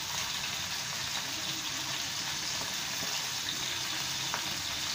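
Thin slices of marinated chicken sizzling steadily in hot oil in a frying pan.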